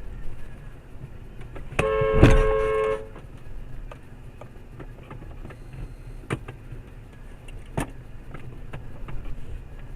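A car horn blares for about a second, with a loud knock partway through it, over the steady road and engine rumble of a car. A few scattered clicks follow.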